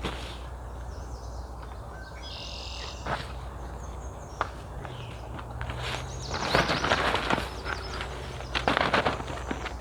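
Outdoor ambience with a bird calling briefly about two and a half seconds in, then two bouts of rustling and handling noise, one past the middle and a shorter one near the end.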